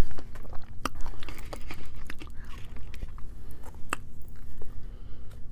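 A person chewing fresh strawberries close to the microphone: irregular short mouth clicks, with a couple of sharper ticks about one and four seconds in.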